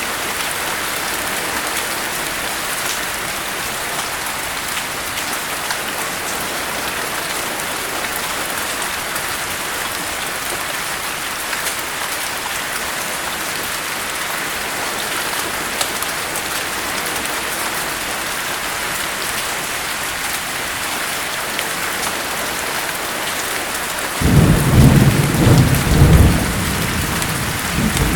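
Steady heavy rain falling, with a loud low rumble of thunder breaking in near the end.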